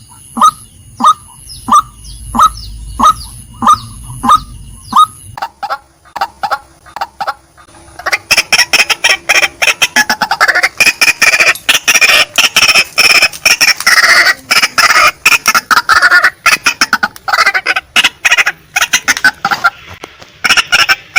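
Female white-breasted waterhen calling: a steady series of short, falling 'kwak' notes about twice a second for the first five seconds. About eight seconds in, these give way to a loud, fast, dense chattering that runs until near the end.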